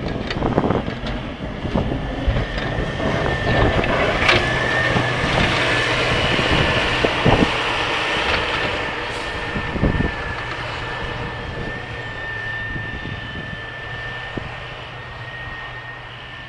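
Snow plow vehicle at work: the engine runs with a steady high whine over it, and several knocks and clunks come in the first ten seconds. It fades away toward the end.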